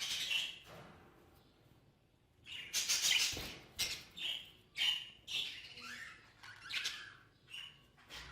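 Budgerigars chirping and chattering in a string of short, high calls, starting about two and a half seconds in.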